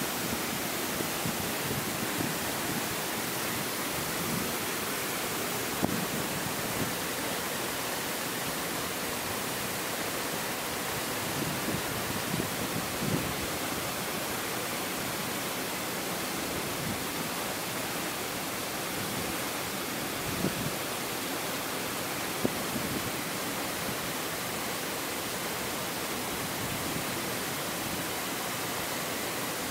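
Steady rush of falling water from the Río Celeste waterfall, an even roar without change, with a few soft knocks scattered through it.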